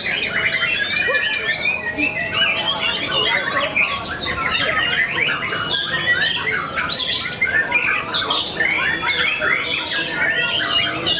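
Many caged songbirds singing at once in a dense, continuous chorus of overlapping chirps, trills and whistles.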